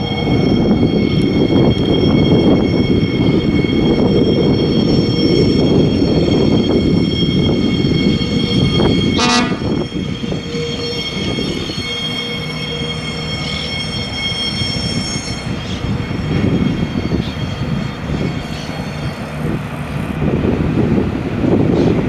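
Alerce railcar running on the track: a loud rumble of engine and wheels, with a steady high-pitched whine for roughly the first fifteen seconds. There is a brief clatter about nine seconds in, the noise eases a little after about ten seconds and swells again near the end.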